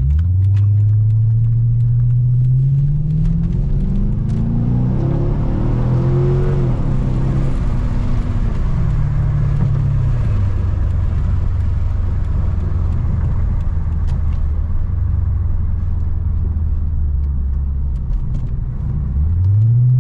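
2006 Dodge Charger R/T's 5.7 Hemi V8 with the mufflers deleted, heard from inside the cabin while driving. The exhaust note rises as the car pulls at the start, climbs again a few seconds in, drops back to a steady low drone while cruising, and rises once more near the end.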